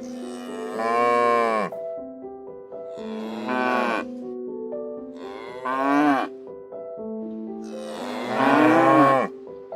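Cow mooing, four calls about two and a half seconds apart, the last the longest and loudest.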